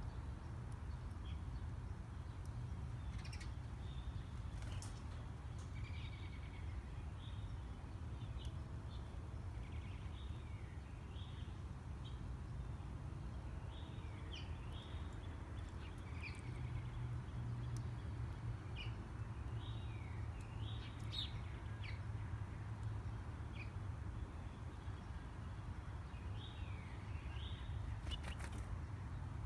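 Small songbirds chirping over and over, many short downward-sliding chirps, over a steady low rumble.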